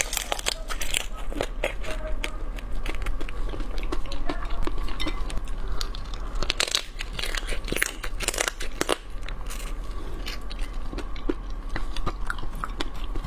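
Close-miked biting and chewing of a large chunk of spicy crab in its shell, with many sharp crunches and crackles, densest about halfway through.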